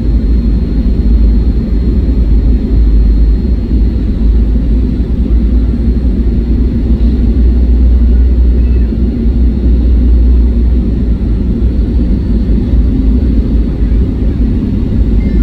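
Steady low rumble of an airliner in flight heard from inside the cabin: engine and airflow noise.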